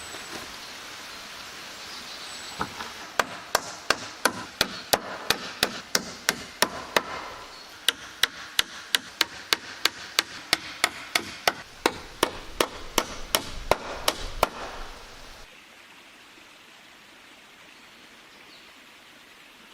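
Hammer blows on wood in a fast, steady rhythm, about three strikes a second, for roughly twelve seconds. They stop, leaving a faint steady hiss.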